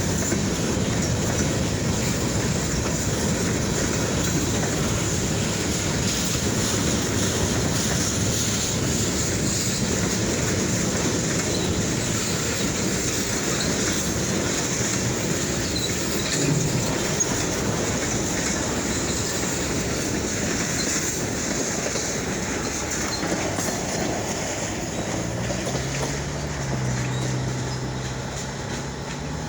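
Freight train cars rolling past on the rails: a steady noise of wheels on track that eases slightly near the end, where a low droning tone that wavers in pitch comes in.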